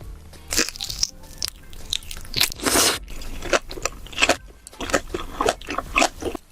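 Close-miked biting and chewing of beef large intestines, a quick irregular run of crunchy, crackly mouthfuls.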